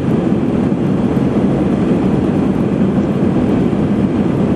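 Steady airliner cabin drone in flight: engine and airflow noise heard inside the cabin, low and unbroken.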